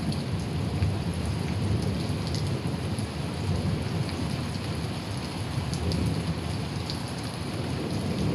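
Rain falling steadily and splashing on surfaces, with a low continuous rumble underneath.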